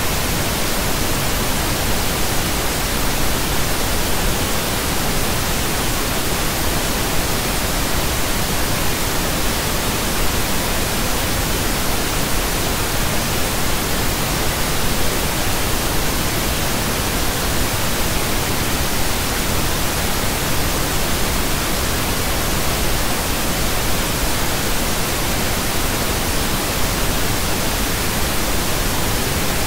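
Pink noise: a steady, even hiss spread across the whole frequency range, with no change in level.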